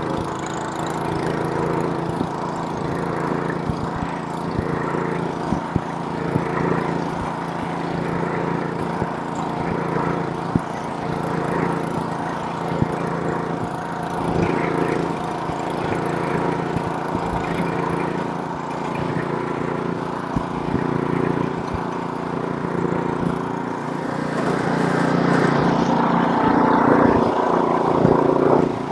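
Small gasoline snowblower engine running steadily, with a few short sharp ticks, and growing louder over the last few seconds.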